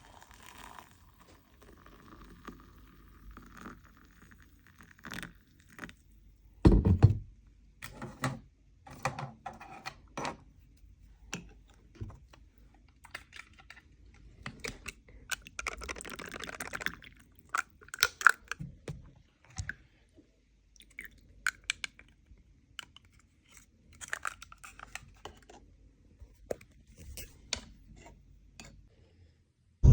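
Irregular clicks and knocks of close handling, with one louder thud about seven seconds in and a short rustle around the middle.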